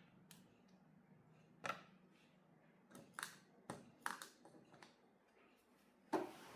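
Light handling noises of someone working with small objects: about seven scattered sharp clicks and taps at irregular intervals, the loudest near the end, over a faint low hum.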